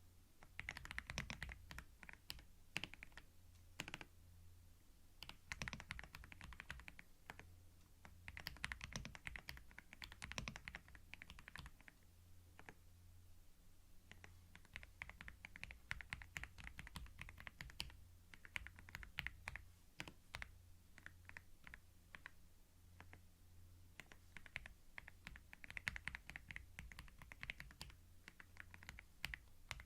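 Typing on a computer keyboard, picked up close on a binaural microphone: bursts of rapid key clicks a few seconds long, broken by short pauses, over a faint steady low hum.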